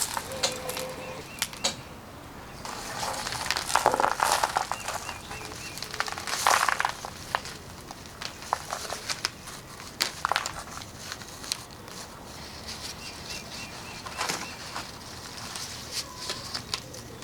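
Irregular rustling and crackling with small clicks, as of things being handled, with several louder rustles. Faint bird chirps are heard in the background.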